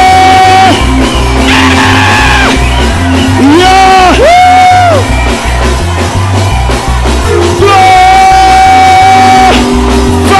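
Loud live worship music: a steady repeating bass line under long held high notes that slide up and down, with shouting.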